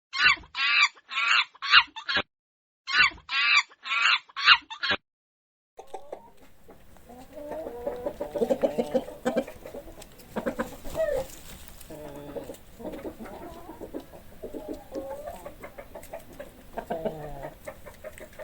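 Chickens calling: first quick runs of high-pitched calls for about five seconds, then, after a short gap, a flock of hens clucking.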